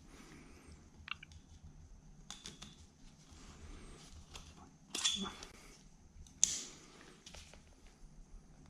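Small metal clicks and scrapes of internal C-clips (retaining rings) being worked out of a bearing bore, with a short scraping burst about five seconds in and a sharp metallic snap about a second later.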